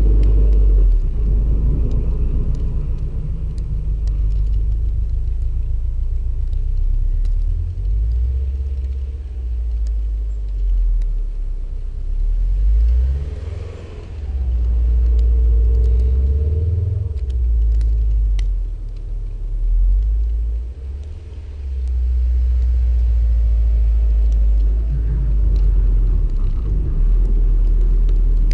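2016 Subaru WRX STI's turbocharged 2.5-litre flat-four engine and exhaust giving a deep rumble as the car drives through deep snow, fading about halfway through as it moves off and growing again as it comes back, with a few short revs.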